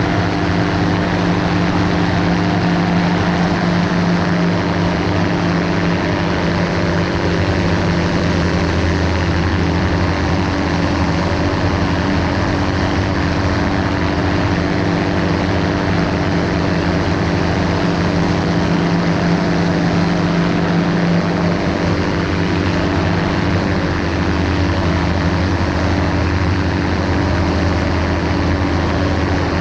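Ultralight aircraft's engine and propeller running steadily in cruise, a constant drone with an even pitch.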